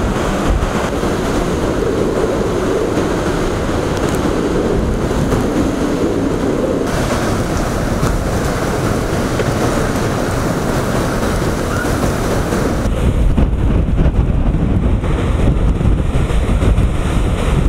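Typhoon wind and surf: a loud, steady rushing noise with wind buffeting the microphone. About thirteen seconds in, the hiss falls away and a low, rumbling buffeting takes over.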